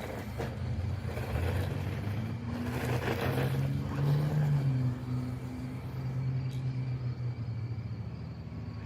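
Brushed-motor 1/10-scale RC truck driving on dirt, its motor humming and rising and falling slightly with the throttle, with wind on the microphone.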